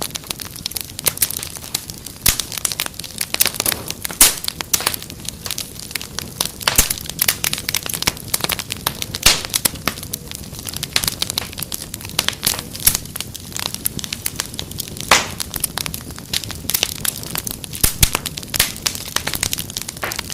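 Wood fire crackling: dense, irregular pops and snaps over a low hiss.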